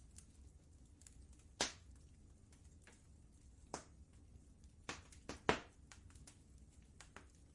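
Wood fire in a fireplace crackling: a few scattered sharp pops with fainter ticks between them, over a faint low rumble. The loudest pops come about a second and a half in, near four seconds, and as a quick run of three around five seconds.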